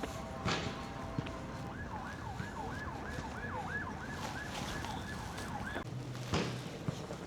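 Emergency vehicle siren in a fast yelp, its pitch rising and falling about three times a second, starting about two seconds in and stopping about four seconds later.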